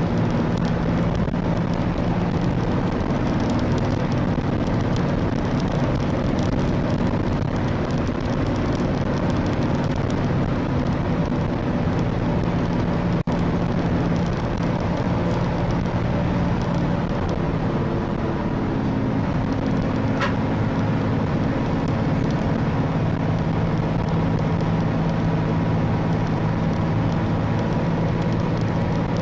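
A car driving, with steady engine hum and road noise, as picked up by a dash camera's microphone. There is a momentary break in the sound about 13 seconds in.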